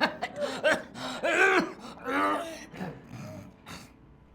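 People laughing: loud wordless voiced laughter and exclamations, tailing off near the end.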